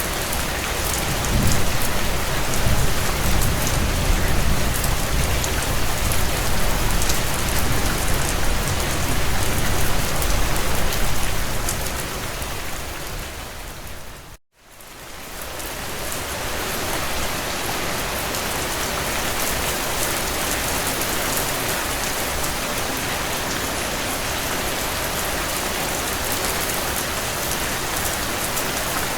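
Heavy rain drumming on a tin roof as a steady hiss, with a deeper rumble under it in the first half. About halfway it fades out almost to nothing for a moment, then fades back in to steady rain.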